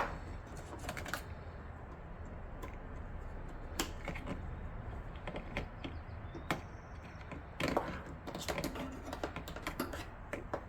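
Irregular clicks and light rattles of plastic power-cable connectors being handled and pushed into place inside a PC case, with a quick cluster of clicks about eight seconds in, over a low steady hum.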